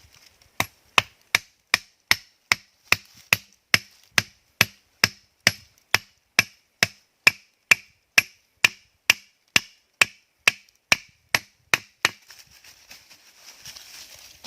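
A tool striking wood over and over in a steady rhythm, a little over two sharp blows a second, each with a short ring. The blows stop about twelve seconds in, and faint rustling follows.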